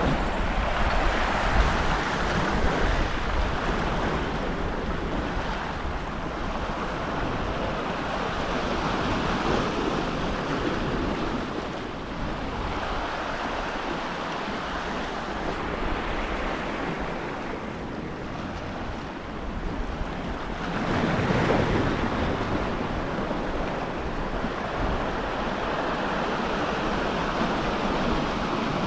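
Sea waves breaking and washing against a rock ledge, swelling and easing in slow surges every several seconds, with wind buffeting the microphone.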